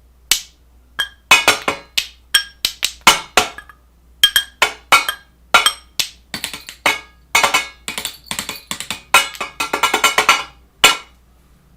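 A series of sharp knocks or taps on a hard object, some with a brief ringing tone. They come a few at a time at first, then in quick irregular flurries, and stop about a second before the end.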